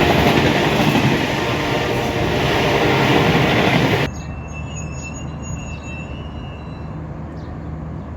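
Train running with loud rail noise, then an abrupt cut about four seconds in to quieter train sound with high, thin squeals, like wheels squealing on the rails.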